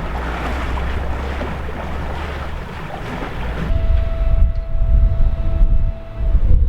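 Wind buffeting the microphone, gusting harder about halfway through over a low steady hum, with a faint steady high tone held for about two and a half seconds in the second half.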